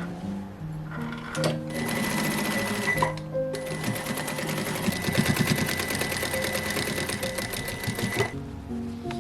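Sewing machine stitching curtain fabric in a fast, even rhythm: a short run of about two seconds, a brief stop, then a longer run of about five seconds that stops near the end.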